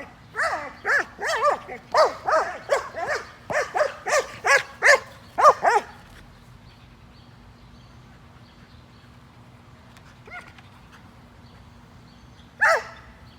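An Australian shepherd giving a rapid run of short, high-pitched cries, about two a second, for the first six seconds, fretting over his missing herding ball. Then quiet, with one faint cry and one loud cry near the end.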